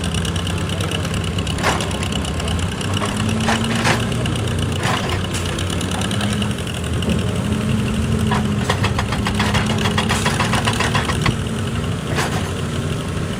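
Heavy excavator diesel engine running steadily, with scattered sharp knocks and a rapid clatter of knocks from about eight to eleven seconds in, typical of the machine working on rock.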